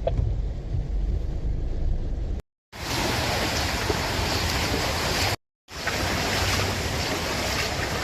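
Floodwater rushing in a steady noisy flow, heard in three short clips split by two brief silent cuts. The first clip is mostly a low rumble of wind on the microphone.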